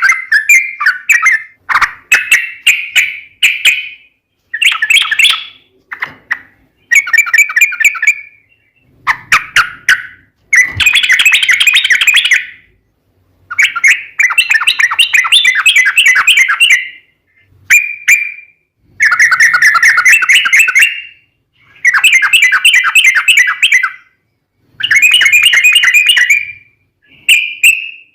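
Yellow-vented bulbul (trucukan) singing long, rapid chattering phrases of bubbly notes, each burst lasting a second or few, repeated with short pauses between them.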